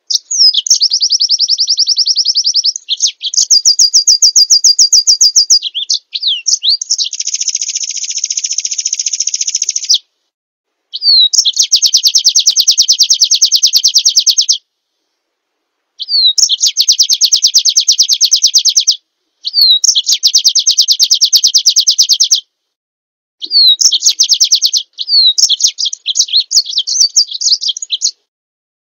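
Small songbird singing loud, rapid, high trills in phrases of one to four seconds, most opening with a quick down-slurred whistle. The phrases are cut apart by gaps of dead silence, as in an edited bird-song training recording.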